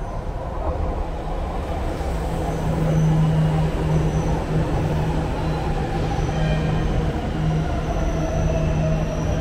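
Jakarta MRT electric train running in along an elevated platform, with a steady low hum that grows louder about two seconds in. Thin high squealing tones join in from about six seconds.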